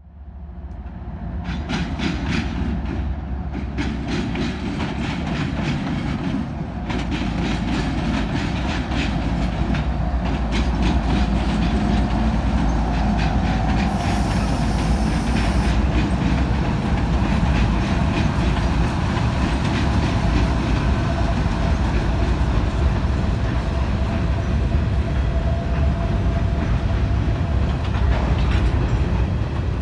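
Train rolling by on the track: a steady deep rumble with a rapid clickety-clack of wheels over the rail joints. A brief high-pitched hiss comes about halfway through.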